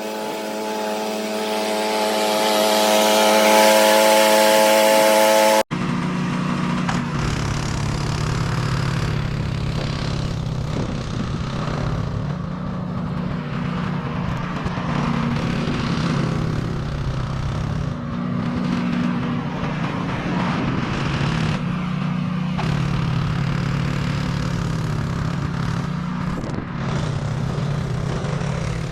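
Snowblower's small gasoline engine running steadily. In the first seconds a louder engine note with a clear pitch builds up, then cuts off abruptly about six seconds in.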